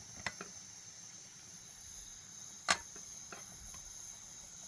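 Crickets chirring steadily at a high pitch, with a few short sharp knocks over it, the loudest a little under three seconds in.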